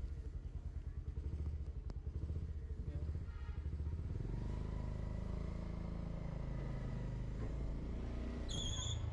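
Motorbike engine running with a low pulsing throb that turns steadier about four seconds in. A brief high tone sounds near the end.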